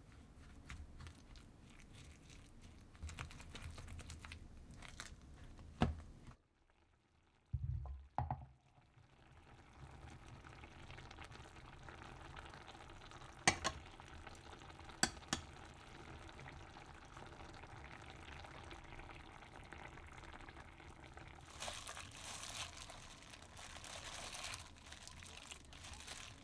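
Food frying or simmering in a pan, a steady faint sizzle with a few sharp knocks of kitchen utensils.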